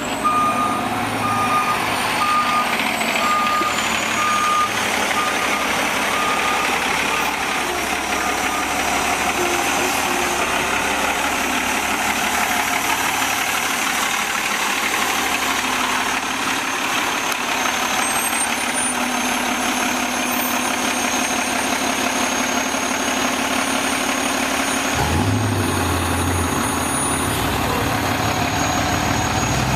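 Autocar Xpeditor roll-off garbage truck's diesel engine running, with its backup alarm beeping steadily for the first third or so. A deeper engine rumble comes in near the end.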